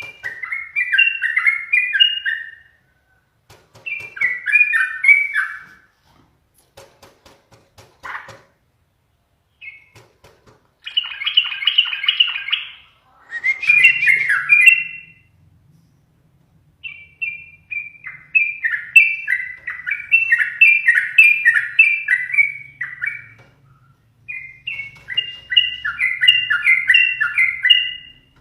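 Yellow-vented bulbul singing in loud bubbling, chattering phrases of one to three seconds each, repeated about eight times with short pauses between them.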